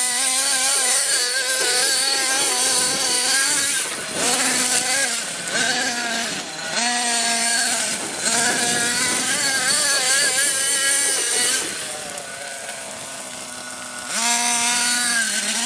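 Electric motor of a battery-powered remote-control vehicle whining, its pitch rising and falling in repeated bursts of throttle. It eases off and goes quieter for a couple of seconds near the end, then picks up again.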